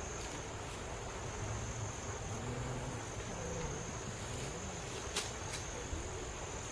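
Insects, such as crickets, chirring in a steady high-pitched drone, over a low rumble of wind. A couple of sharp clicks come about five seconds in.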